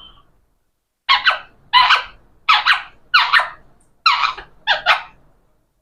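Pet parrot giving six short, harsh, screechy calls in a quick even series, about one every two-thirds of a second.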